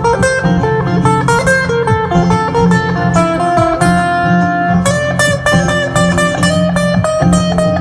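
Instrumental music: an acoustic guitar picking a lead line of quick plucked notes over a steady bass.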